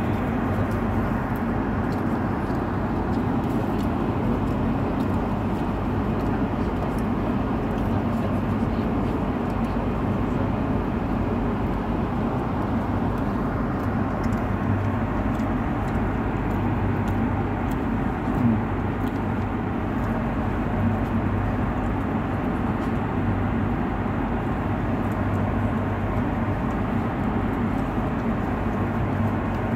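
Steady drone inside a jet airliner's cabin: engine and airflow noise running evenly, with a low hum beneath.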